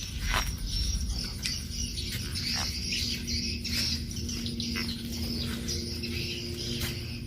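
A trapped bird flapping inside a small cage trap, with irregular clicks and rattles from the cage as it is handled. A faint steady low hum runs through the middle.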